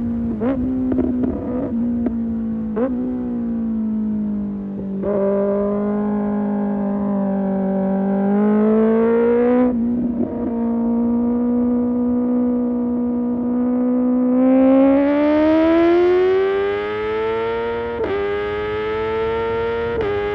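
Kawasaki ZX-6R inline-four through an Arrow Pro Race exhaust, being ridden. It opens with a few quick throttle blips and sharp cracks, then settles at a steady pitch with a couple of drops. About two-thirds through the engine pulls hard with a rising note, and near the end there are two quick upshifts.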